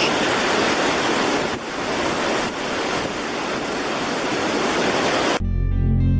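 Steady, loud rushing noise with no distinct pitch, cut off suddenly near the end by music with a heavy bass.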